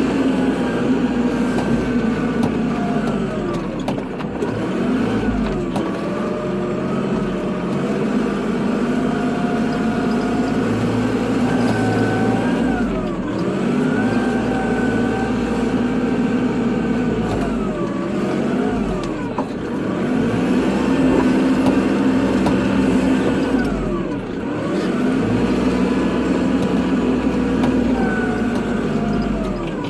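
Kubota tractor's diesel engine running steadily under load while plowing snow. Its pitch falls and recovers every few seconds as the machine works back and forth.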